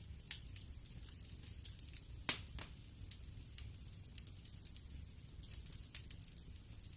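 Wood fire in a fireplace crackling, with scattered sharp pops, the loudest a little over two seconds in and about six seconds in, over a low steady rumble of the flames.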